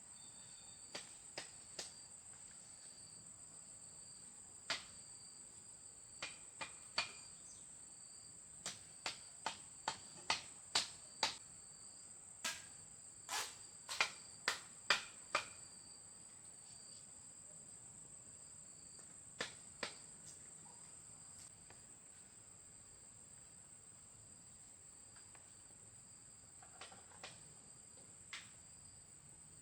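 Crickets chirping steadily in a high, continuous trill, with irregular sharp knocks or taps over it that come in a quick run in the middle and then thin out.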